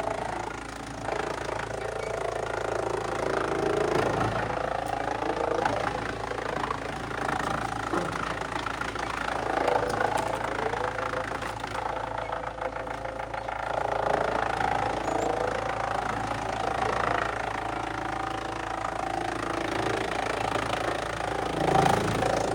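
Heavy-duty wood shredder running with a steady low hum, its sound shifting and churning unevenly as it chews through wood.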